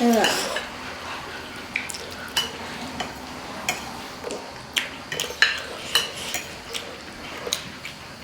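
Eating utensils clicking and scraping against bowls and dishes during a meal, in scattered sharp clicks. A short falling vocal sound right at the start.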